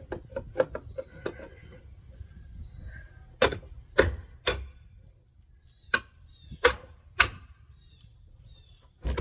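Six sharp knocks in two quick groups of three, about two seconds apart, from demolition work on a wall's wooden framing.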